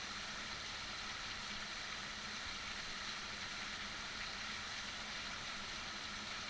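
Heavy rain falling steadily, an even hiss with no separate drops or breaks, over a faint steady low hum.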